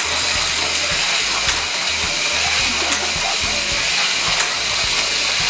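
Hot Wheels slot car's small electric motor running on the track: a steady, loud whirring hiss with a few faint clicks, the car now moving after its rear weight was taken off.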